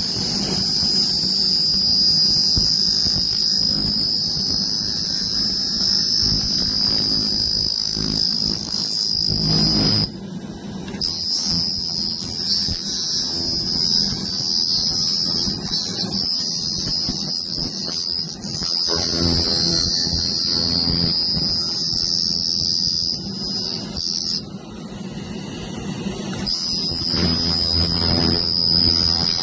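Laser cleaner working on engine parts, a steady high-pitched whine over a low rumble. It cuts out briefly twice, about ten seconds in and again for about two seconds near 24 seconds.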